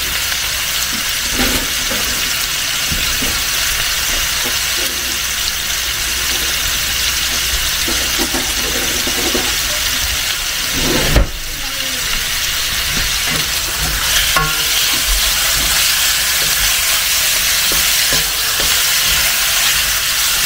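Beef and onion slices sizzling steadily as they brown in a stainless steel sauté pan on a gas burner. There is a single thump about eleven seconds in.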